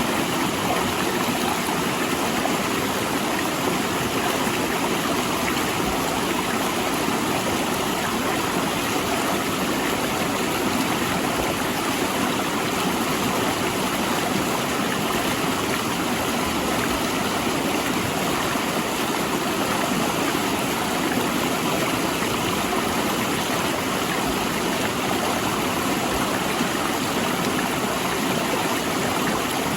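Mountain river rushing between large rocks: a steady, unbroken roar of flowing water.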